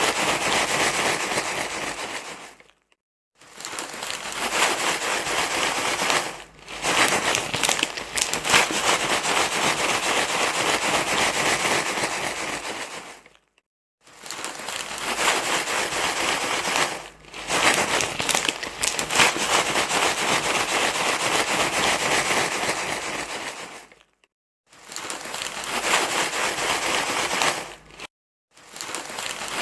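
Loud, continuous rustling and crinkling, like something being crumpled over and over. It breaks off into short silent gaps several times, each less than a second long.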